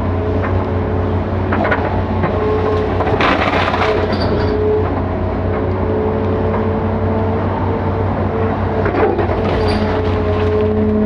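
Hitachi 5G-series hydraulic excavator running under load: a steady low engine drone with a whine that comes and goes, and scattered knocks and cracks.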